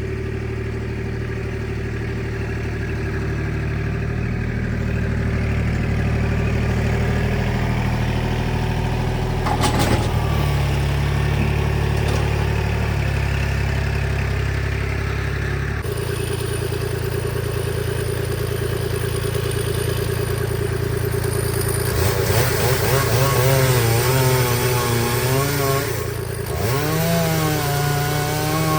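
An engine running steadily, its sound changing about sixteen seconds in, then revving up and down with a wavering pitch through the last several seconds.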